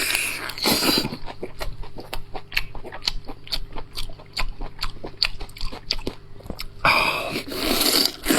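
Close-miked chewing of fatty braised lamb chop: quick wet mouth clicks several times a second, turning into a louder, noisier stretch of eating sound near the end.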